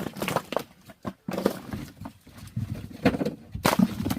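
Firewood logs knocking and clattering against each other in irregular knocks, loudest near the end.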